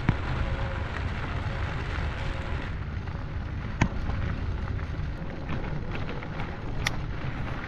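Electric bike riding along a rough dirt trail: wind rushing over the camera microphone and tyres rolling, with a couple of sharp knocks about four and seven seconds in.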